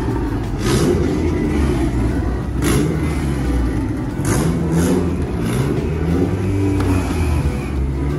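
Car engine revving in a garage, with a few short sharp cracks about a second, three seconds and four to five seconds in.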